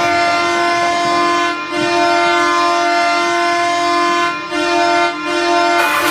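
Ottawa Senators hockey goal horn blaring, signalling a goal. It is loud and steady, with three brief breaks between blasts.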